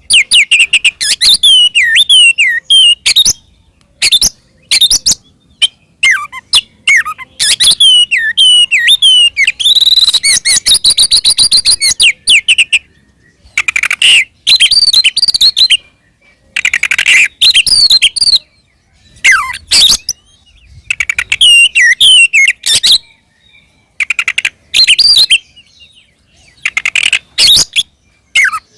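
Oriental magpie-robin (kacer) singing loudly in short phrases of varied sliding whistles, with a long fast rattling run of notes partway through and brief pauses between phrases. It is the full, aggressive song that bird-keepers call 'ngeplong tarung', used to provoke other kacer into answering.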